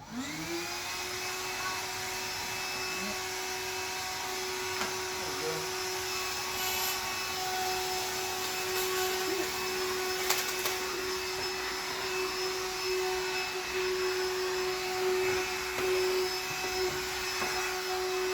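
Vacuum cleaner switched on, its motor spinning up to speed in about half a second and then running steadily with a constant hum and hiss. A few faint clicks and knocks sound over it.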